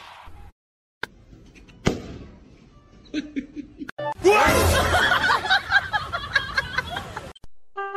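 People laughing loudly for about three seconds before cutting off suddenly, preceded by a click and a sharp knock.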